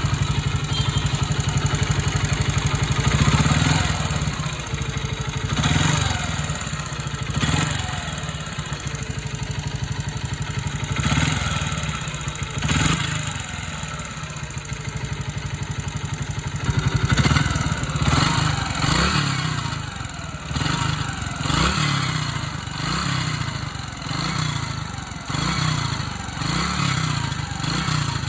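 Yamaha YB125 motorcycle engine running, with repeated throttle blips that briefly raise the revs: a few in the first half, then about one a second. It makes an engine noise that the owner calls strange.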